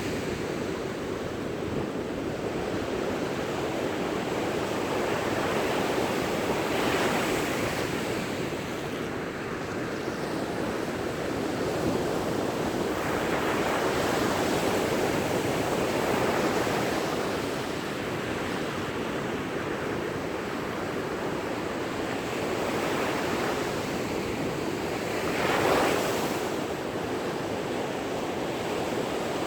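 Ocean waves breaking on a sandy beach, a steady wash of surf with a wave crashing every few seconds, the loudest about 26 seconds in. Wind is on the microphone.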